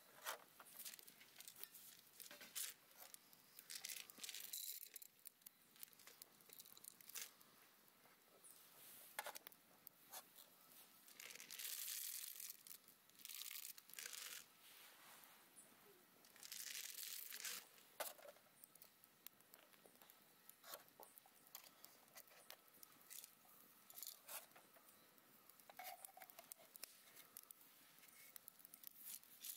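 Faint, intermittent rustling and tearing, as of packaging being handled and torn open, in short bursts of a second or two, with scattered small clicks between them.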